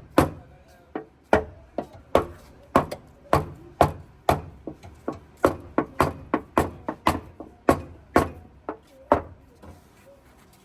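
Hammer blows on a car's sheet-metal body panel during dent repair: a run of sharp, separate strikes, about two a second and unevenly spaced, that stops about nine seconds in.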